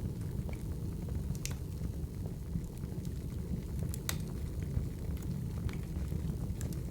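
Crackling wood fire: a steady low rumble of burning logs with scattered sharp pops and snaps.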